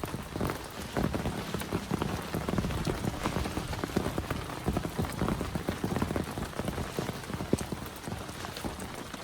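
Heavy rain falling, a dense, steady patter of many individual drops striking close by.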